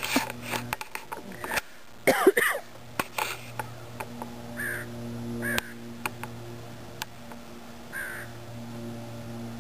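A bird calling repeatedly with short calls, loudest in a cluster about two seconds in, then single calls spaced a second or more apart. A low steady hum comes and goes underneath.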